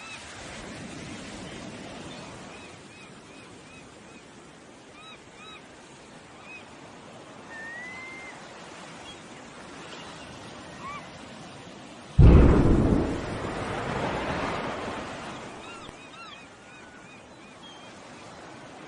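A steady rushing background with small, repeated bird chirps, then about twelve seconds in a sudden loud blast that rumbles and fades away over several seconds: the sound of an explosion.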